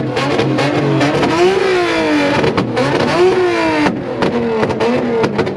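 Blue Nissan Z car's engine revving hard on a two-step launch limiter, its pitch climbing and dropping several times, with many sharp exhaust pops and bangs.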